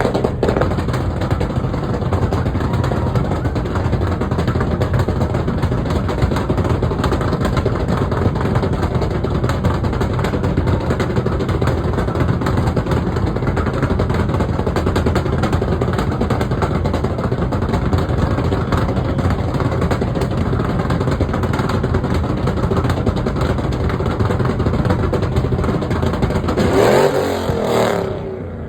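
Car engine held at high revs for a long, steady stretch, loud throughout, swelling briefly just before the end and then easing off.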